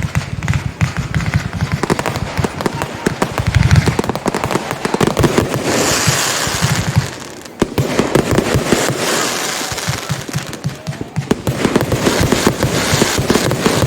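Retail fireworks going off in rapid succession: dense bangs and crackle, with a stretch of hissing crackle about six seconds in and a short lull near seven and a half seconds before the rapid bangs resume.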